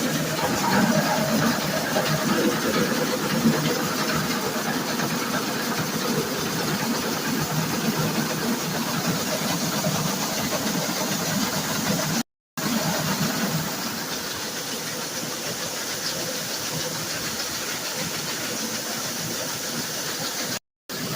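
Grain truck being loaded by an electric-motor grain auger: a steady mechanical running noise with grain pouring. It drops to silence briefly about halfway through and again near the end, then carries on a little quieter.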